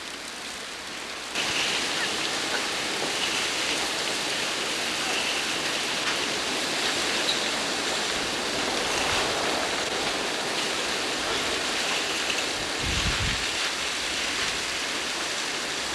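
Strong storm wind blowing across a camcorder microphone, a steady rushing noise that gets louder about a second and a half in, with a low buffet of wind on the microphone near the end.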